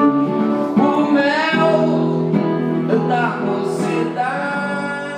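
Live song: singing over strummed acoustic guitar.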